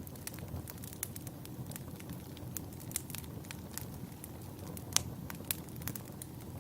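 Wood fire burning in a fireplace: irregular crackles and pops over a steady low rumble of the flames, with one sharper pop about five seconds in.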